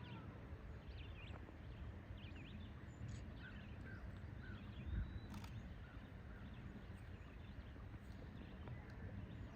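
Outdoor ambience of small birds chirping and twittering in many short, quick calls over a low rumble, with one sharp click about halfway through.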